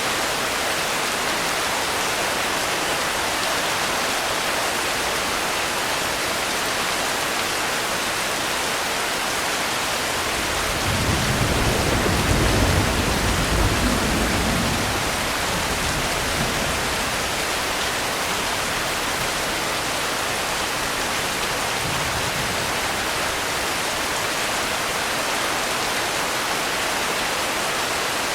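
Steady rain, an even hiss throughout, with a low rumble of distant thunder swelling about ten seconds in and fading out some five seconds later; a fainter rumble follows near the end.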